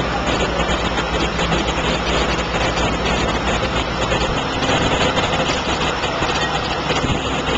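Boat engine running steadily under a constant wash of noise; its deepest rumble drops away about halfway through.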